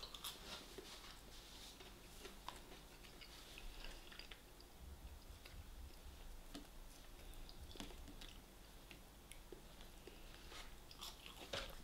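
A person chewing food, faint, with small irregular mouth clicks.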